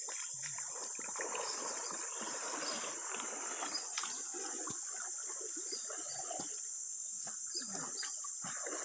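Insects droning steadily at a high pitch, over irregular water trickling and splashing.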